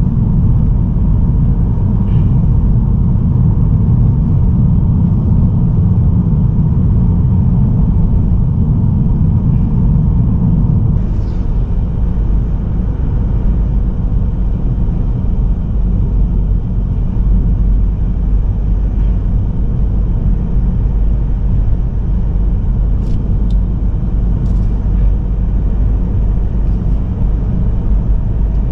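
Steady low rumble of a car driving at road speed: tyre, road and engine noise heard inside the cabin of a Mazda3 sedan with a 1.8 L Skyactiv-D diesel. The rumble eases a little about eleven seconds in, and a few faint clicks come near the end.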